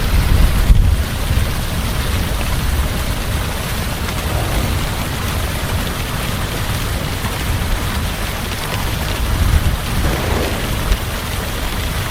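Heavy rain falling steadily, with low rolling rumbles of thunder, the strongest in the first second and another about ten seconds in.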